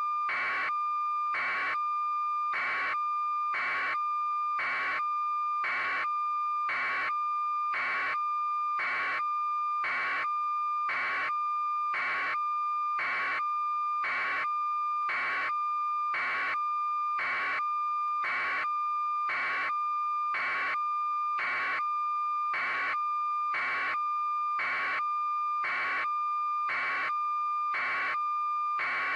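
Electronic tone held steady at one high pitch, with an evenly repeating beep-like pulse about three times every two seconds, unchanging throughout.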